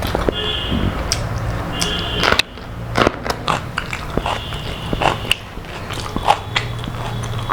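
Close-up eating sounds: crisp bites and chewing of crunchy fried food, a run of sharp crunches at irregular intervals.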